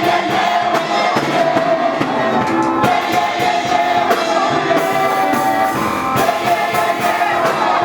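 Gospel praise music: a group of voices singing held notes over a band with steady drum hits.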